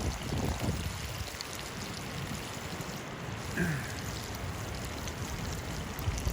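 River water flowing steadily, an even rushing hiss, with a brief higher squeak a little past halfway.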